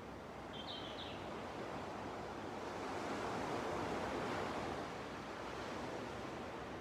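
Small sea waves washing onto a beach, one swelling up and breaking about three to four seconds in. A small bird gives two short, high chirps about a second in.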